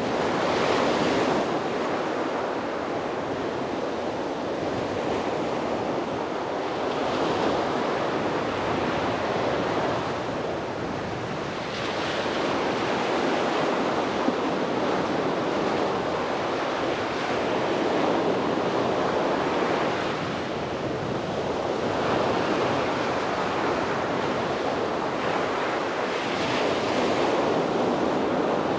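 Sea waves breaking on a beach: a continuous rush of surf that swells and eases every five or six seconds as each wave comes in and draws back.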